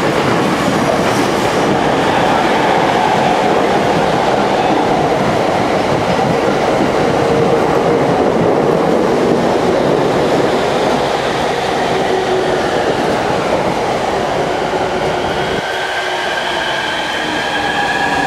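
Ueno-Tokyo Line electric commuter train running past close by: a loud, steady rumble of wheels on the rails. Near the end a thin whine slowly rises in pitch.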